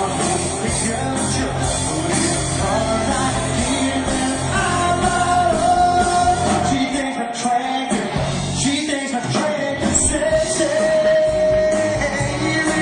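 Live country band playing a song in a large room: drums, bass and guitars under a lead vocal that holds long sung notes.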